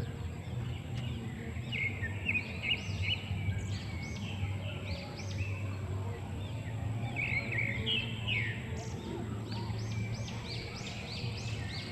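Small birds chirping, with many short, high, arched notes repeating irregularly and coming thicker near the end, over a steady low hum.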